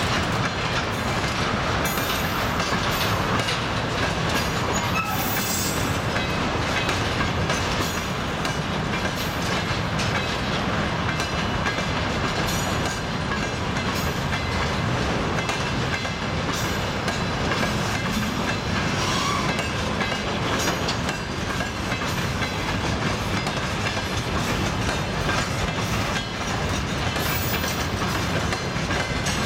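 Long freight train of covered hopper wagons and open gondola wagons rolling past, its steel wheels clattering steadily over the rail joints.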